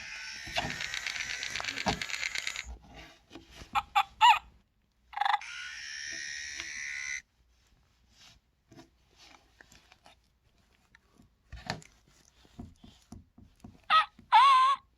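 Electronic sound chip of a Senario Scoozie toy ferret playing its animal noises: two long bursts of scratchy chattering with short chirps between them, then a quiet spell with small clicks and knocks from the toy being handled, and warbling chirps near the end.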